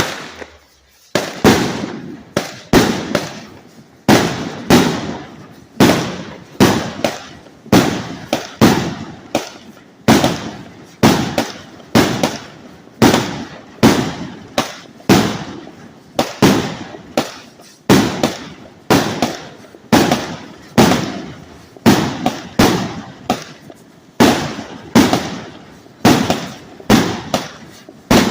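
49-shot fireworks cake firing shot after shot, about one to two a second, each shot a spinning effect ending in a sharp salute bang with a short echoing tail.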